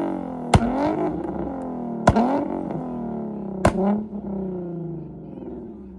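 A performance car engine revved hard three times, about a second and a half apart, each rev punctuated by a sharp exhaust bang, with the pitch sinking slowly as the revs drop. It dies away over the last couple of seconds. The bangs are the backfires of a car set up to shoot flames from its exhaust.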